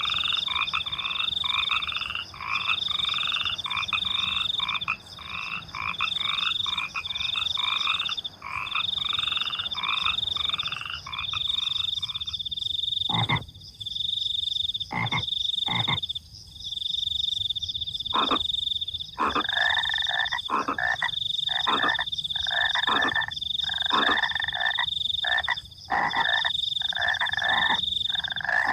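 Frogs croaking in fast, repeated calls over the steady, pulsing high trill of crickets. The frogs fall silent for several seconds around the middle, leaving only the crickets and a few sharp clicks, then start up again in a chorus.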